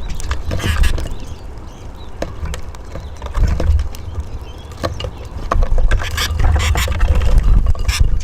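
Eurasian siskins at a bird house, making a busy run of sharp clicks, scratches and flutters as they peck, hop and flap about, over a constant low rumble.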